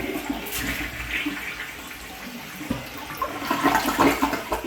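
Toilet being flushed, water rushing steadily down the bowl and growing louder toward the end, as a leak test of the newly reinstalled and waterproofed toilet's drain connection.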